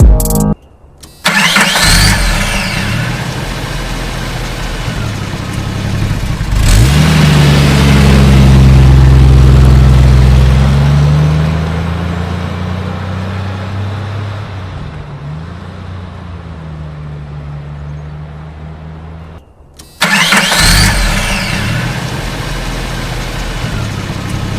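Car engine starting about a second in, revving up to its loudest in the middle and settling back. It cuts out briefly near the end and starts again.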